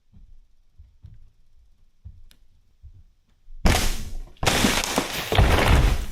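A section of the rotten cabin roof breaking loose and crashing down, cracking wood and falling debris loud from about three and a half seconds in, after a few faint knocks.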